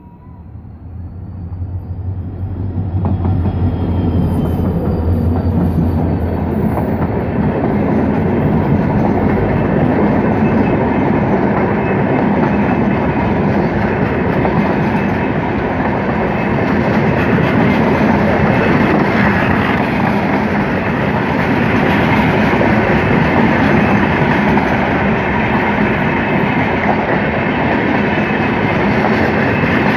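An express passenger train passes close by. The diesel locomotive's engine drone grows louder over the first few seconds, then gives way to the steady rumble and clickety-clack of the coaches rolling past.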